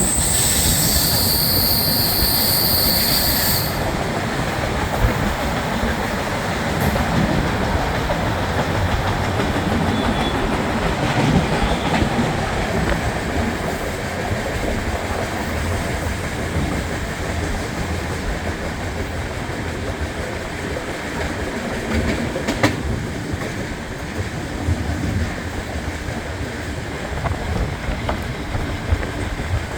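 Passenger train running on the track, a steady rumble of wheels and carriages. There is a high-pitched squeal that stops about four seconds in.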